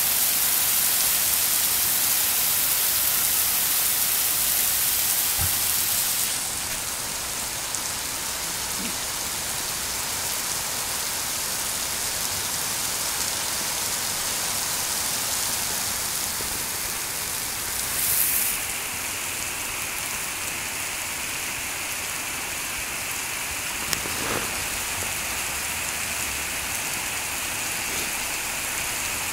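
Heavy rain pouring onto a paved street and pavement, a steady dense hiss of drops on wet asphalt. It eases a little about six seconds in, with a brief louder swell about two-thirds of the way through.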